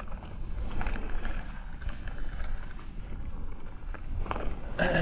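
Mountain bike being ridden on a dirt trail: wind buffeting the microphone over a steady rumble of tyres, with a few short rattles and knocks from the bike over bumps, the loudest near the end.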